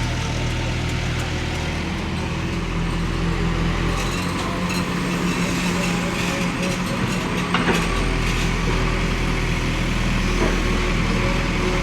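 Diesel engine of heavy earthmoving machinery running steadily, its pitch shifting for a few seconds in the middle, with a single sharp knock about seven and a half seconds in.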